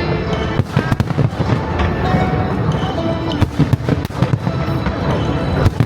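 Aerial fireworks going off in a string of sharp bangs, a quick cluster of them about halfway through and another near the end, over a continuous low rumble of bursts, with music playing.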